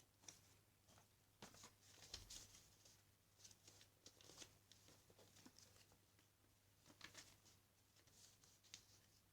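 Faint rustling and creasing of a sheet of paper being folded into a paper airplane: short, scratchy handling sounds with brief pauses between.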